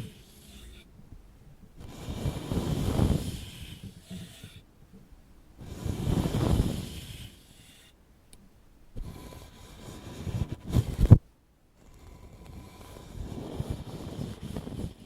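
ASMR ear-pick scraping and rubbing on the microphone, in four slow strokes of about two seconds each with short pauses between. There is a sharp click near the end of the third stroke.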